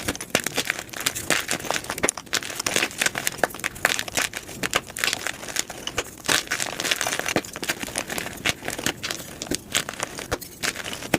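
Gym chalk being crushed and crumbled, a dense, irregular run of crunchy crackles and snaps.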